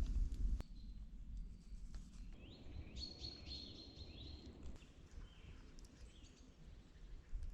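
A small bird calling: a quick run of short, high, rising chirps in the middle, over a low steady rumble.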